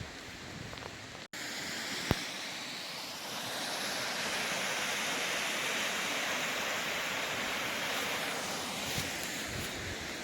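Rushing water of a mountain valley stream, a steady hiss that cuts briefly about a second in and comes back louder. A single sharp click about two seconds in.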